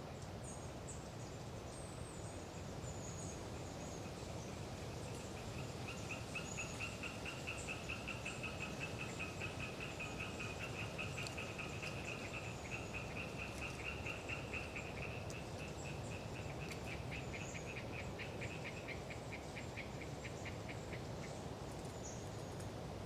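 Oriental tree frogs (Hyla orientalis) calling in a long run of rapid, rattling pulses that starts about five seconds in and fades out near the end. Thin, high bird calls come now and then, over a steady rumble of wind.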